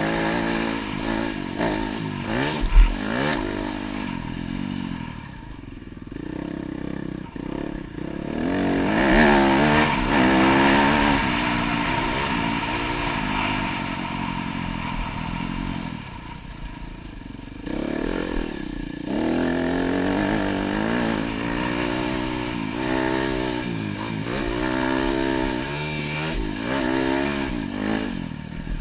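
Dirt bike engine being ridden hard, its pitch rising and falling over and over as the throttle opens and closes, with rattling and a sharp thump about three seconds in. It goes quieter twice, for a few seconds each time, as the throttle is rolled off.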